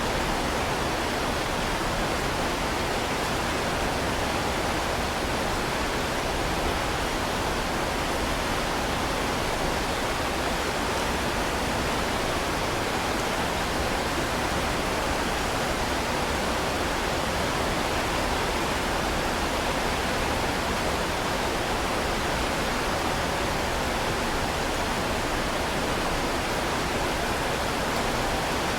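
Heavy rain falling as a steady, even hiss, with no separate drops, thunder or pauses standing out.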